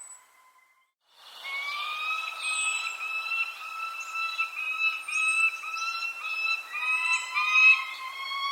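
Birds calling: a run of repeated calls held on nearly one pitch, note after note with short breaks, with short thin falling chirps above them. The sound drops almost to silence at the start and comes back about a second in.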